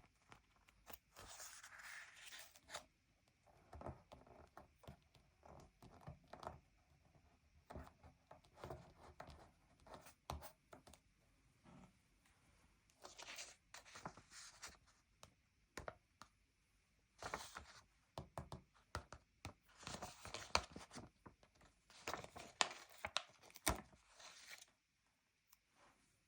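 Paper stickers peeled off their backing sheet in several short tearing strokes, with soft taps and rubbing between them as the stickers are pressed down onto the sticker-book pages.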